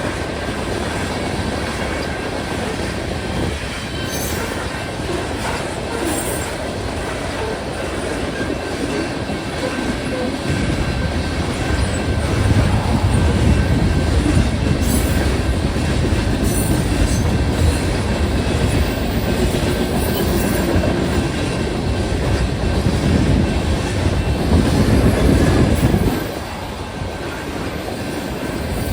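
Freight grain train rolling past a grade crossing, its wheels clacking over the rail joints with some wheel squeal. The rumble gets heavier about a third of the way in and drops off suddenly near the end.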